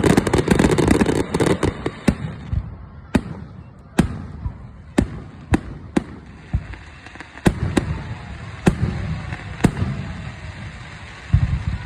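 Fireworks exploding: a rapid run of crackling bangs at the start, then single sharp bangs about once a second, and a quick cluster near the end.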